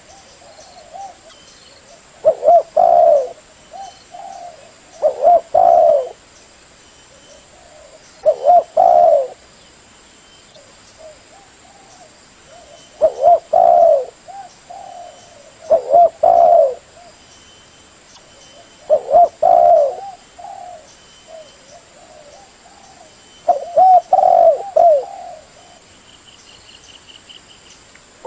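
Spotted dove cooing: a phrase of a few low, rolling coos repeated about seven times, every two to five seconds, with softer coos between.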